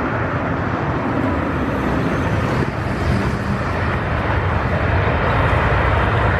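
Boeing 737-800's CFM56-7B jet engines, a loud steady roar that builds slightly toward the end, as the airliner rolls out on the runway after landing.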